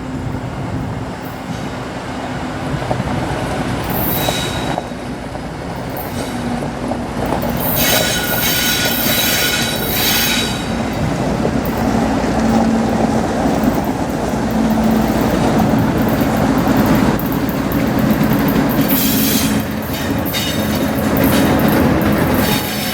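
A train rolling past on the rails with a steady rumble and wheel clatter. Several separate bursts of high-pitched wheel squeal come through, the longest near the middle.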